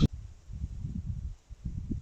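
Wind buffeting the microphone, giving irregular low rumbles that rise and fall in gusts, after a sharp click at the very start.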